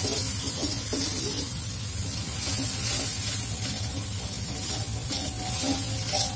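Blended red chili spice paste sizzling in oil in a steel wok while a metal spatula stirs it, scraping the pan now and then. The paste is being sautéed until cooked through so it loses its raw taste.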